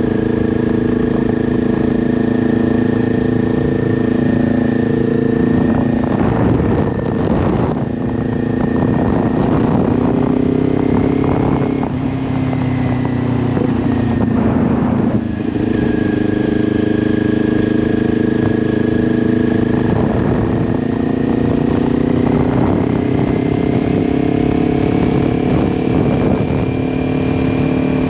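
2022 Kawasaki Ninja 400's parallel-twin engine through an SC-Project aftermarket exhaust, running steadily under way with wind noise on the microphone. The engine note dips briefly about halfway, then climbs gradually in pitch toward the end.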